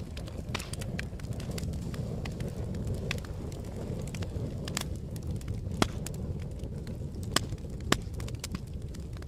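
Campfire crackling: a steady low rumble of burning wood under frequent sharp crackles and pops, with three louder pops about six, seven and a half and eight seconds in.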